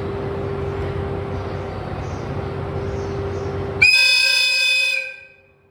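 An electric train running through a station with a steady rumble and a constant hum. About four seconds in, it sounds one loud, high, clear warning horn blast lasting about a second.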